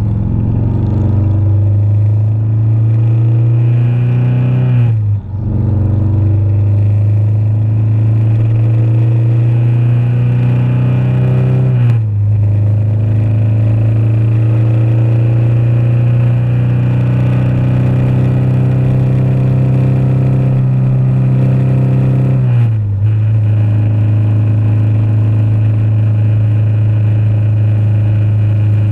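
Motorcycle engine running under way at steady revs, its note dipping briefly three times, about five, twelve and twenty-three seconds in.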